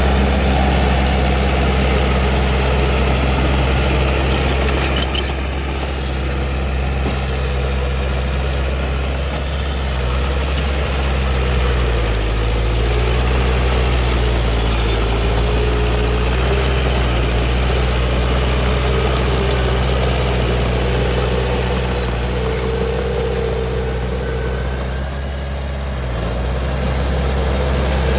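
Komatsu D31P bulldozer's diesel engine running steadily, with its pitch and loudness dipping briefly twice as the load changes.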